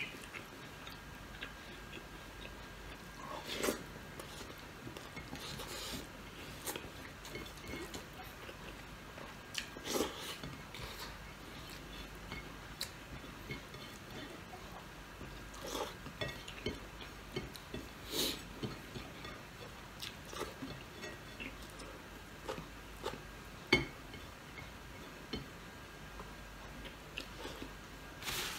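A person chewing and eating rice with his fingers, with soft mouth sounds and scattered short clicks and taps of fingers and food on a ceramic plate.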